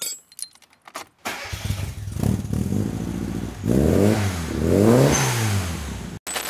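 Classic Mini pickup's small four-cylinder engine catching about a second in and running, then revved up and back down twice before the sound cuts off suddenly near the end.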